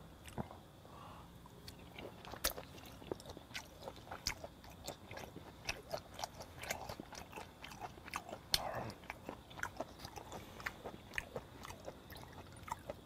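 Close-miked chewing of raw flounder sashimi: a steady, irregular run of short, soft mouth clicks and smacks.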